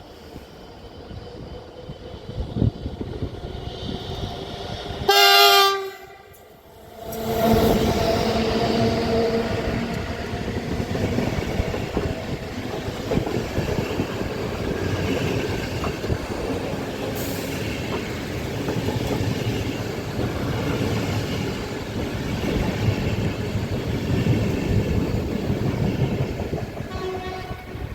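A train horn sounds briefly, under a second. After a short lull, a train runs through the station with loud, steady wheel and rail noise and clicking over the track.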